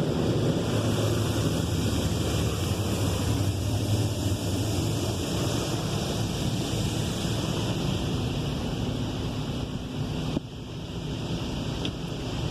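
High-pressure rinse jets of a Belanger Condor car wash spraying water onto a car: a steady rushing hiss over a low pump hum. About ten seconds in, it drops suddenly to a quieter spray.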